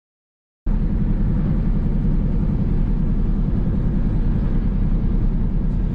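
Steady, loud, low rumble of a vehicle on the road, engine and road noise together. It starts abruptly from dead silence under a second in.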